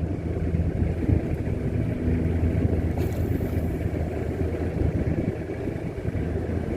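An engine on a squid-fishing boat runs steadily with a low, even hum, and wind rushes on the microphone.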